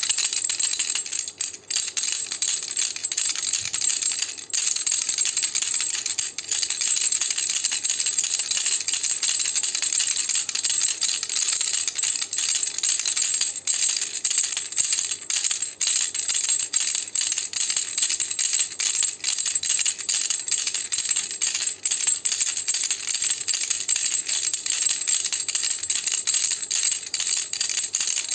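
Baby rattle shaken continuously: a dense, steady rattling with a brief break about one and a half seconds in.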